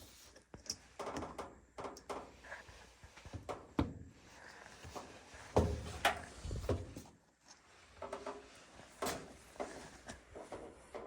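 Irregular knocks, clicks and light clatter of things being handled, with the loudest knocks about six seconds in and again near nine seconds.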